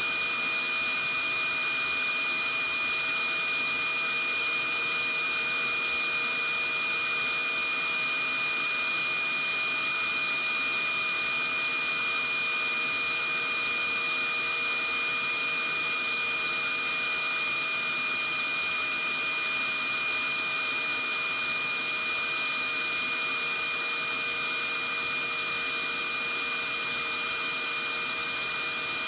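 Vacuum cleaner running steadily: a constant airy hiss with a high, unchanging motor whine and no change in pitch or level.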